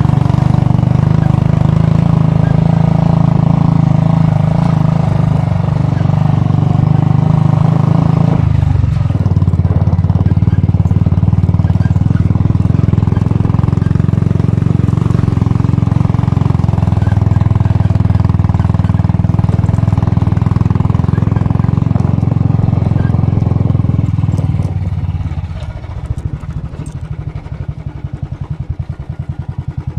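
Royal Enfield Bullet's single-cylinder four-stroke engine running steadily, its pitch dipping briefly about eight seconds in. Near the end it drops to a quieter, slower beat, like an idle.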